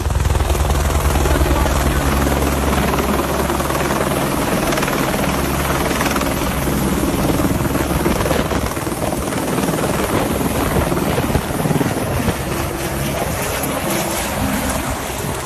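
Helicopter in flight while carrying a load of concrete. Its rotor makes a fast, even low beat that is strongest for the first several seconds, over a steady rush of engine and air noise.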